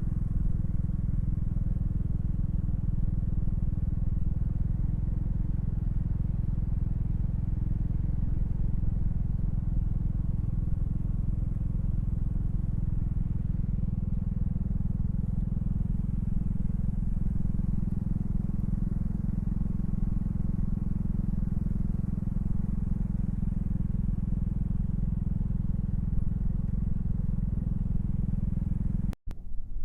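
Honda Fusion scooter's single-cylinder engine running steadily under way, a constant low rumble and hum with no change in pitch. The sound cuts off abruptly about a second before the end.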